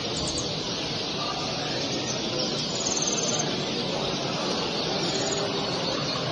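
Many caged songbirds chirping and trilling over the steady murmur of a crowd talking, with a quick high trill about three seconds in.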